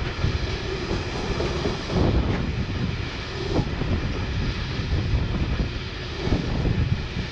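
A train running past, a steady heavy rumble with a few faint knocks.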